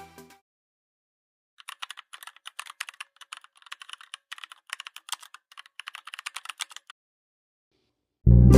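Computer keyboard typing: a rapid run of light clicks lasting about five seconds against dead silence, the kind of typing sound effect laid in during editing. Music fades out just after the start, and loud music starts near the end.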